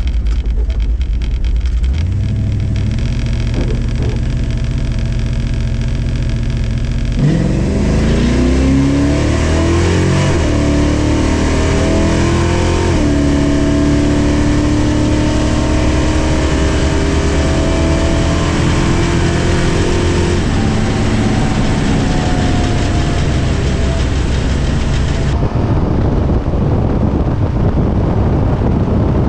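Chrysler 340 small-block V8 in a Dodge Dart making a solo drag-strip pass: it idles, launches hard about seven seconds in with the engine pitch climbing, drops in pitch at a gear change about six seconds later, and pulls on until it lifts off about thirteen seconds after the launch.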